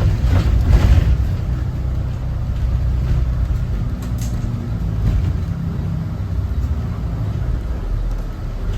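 Thomas Saf-T-Liner C2 school bus's Cummins ISB 6.7 inline-six turbo diesel running on the move, a steady low drone, with a few knocks or rattles in the first second.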